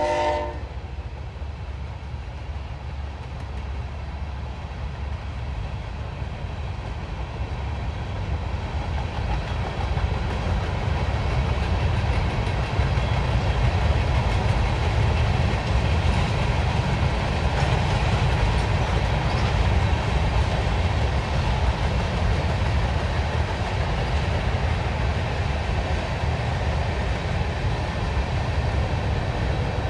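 Norfolk Southern freight train rolling past, its railcars giving a steady heavy rumble and clatter on the rails that grows a little louder about ten seconds in. The end of a horn blast cuts off right at the start.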